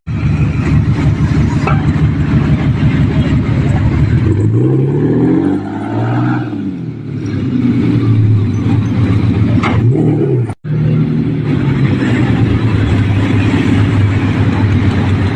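Car engines running in street traffic, a steady low engine hum. A few seconds in, an engine note sweeps up and back down, as a car revs and passes. There is another short rise just before a brief cut-out about ten seconds in.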